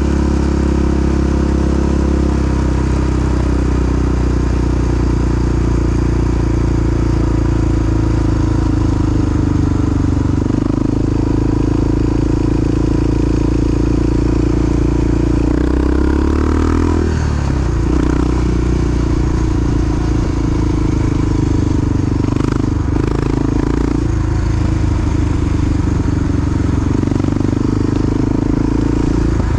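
Big single-cylinder four-stroke dual-sport motorcycle engine running steadily at low revs while riding. About sixteen seconds in, its pitch briefly dips and climbs again, as with a change of throttle or gear.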